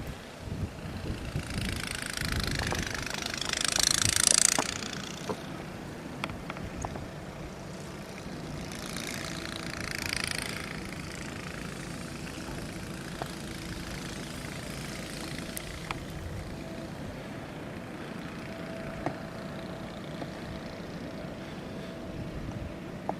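Two vehicles passing one after the other, each a swell of tyre hiss that rises and falls, the first louder. Afterwards a steady low engine hum.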